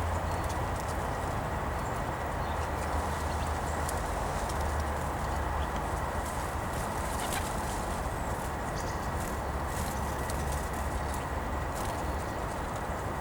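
Birds outdoors, with scattered short clicks and taps over a steady hiss and low hum.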